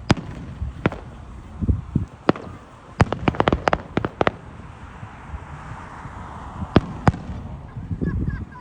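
Fireworks going off: separate sharp bangs scattered through, with a rapid run of cracks about three to four seconds in, and a few lower booms.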